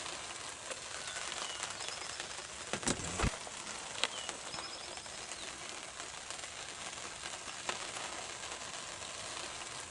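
Woodland dawn ambience: small birds chirping and trilling faintly over a steady hiss, with a few sharp knocks about three seconds in and another about four seconds in.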